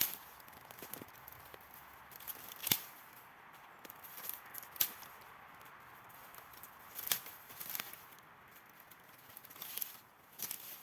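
Dry twigs and sticks snapping with sharp cracks several seconds apart, amid light rustling of dry forest litter, as a campfire spot is prepared.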